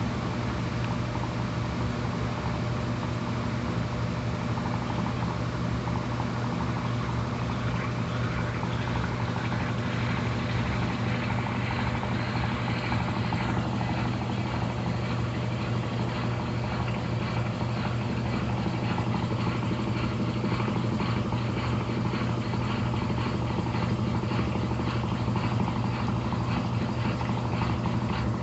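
Brastemp Intelligent 7 kg (BWQ24B) top-loading washing machine running steadily mid-cycle, with a constant motor hum and a fast, even whirring.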